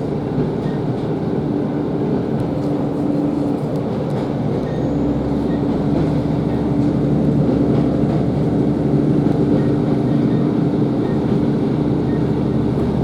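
Cabin of a Class 150 Sprinter diesel multiple unit under way: steady drone of its underfloor diesel engines over the rumble of wheels on the rails, with the engine hum strengthening about five seconds in.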